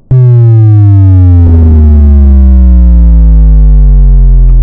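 Loud synthesized sound effect: a buzzy electronic tone sliding steadily down in pitch for about four and a half seconds, starting and cutting off abruptly.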